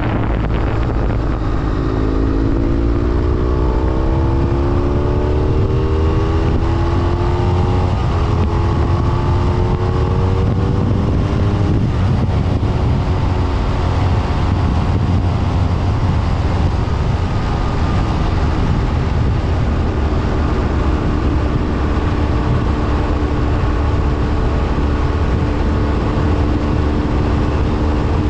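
BMW F800R's parallel-twin engine under way: the revs climb as the motorcycle accelerates over the first dozen seconds, then settle to a steady cruising note for the second half, over a heavy low rumble.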